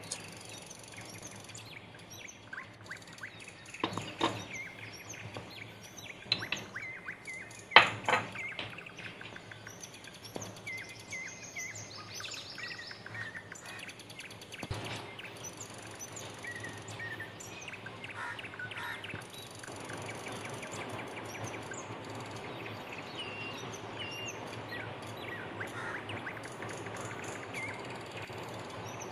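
Small birds chirping and calling over steady background noise, with a few sharp knocks, the loudest about eight seconds in.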